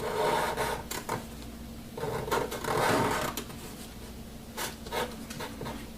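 Writing on a board: a scratchy stretch of strokes about a second long at the start and another around the middle, then lighter scattered strokes and taps.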